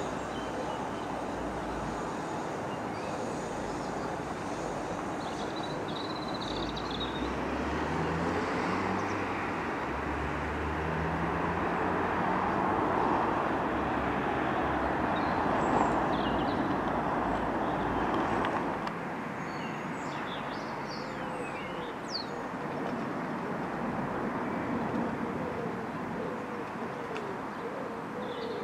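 South Western Railway electric multiple unit pulling out and accelerating away, a steady rumble of motors and wheels on the rails that swells then eases off. Birds chirp now and then.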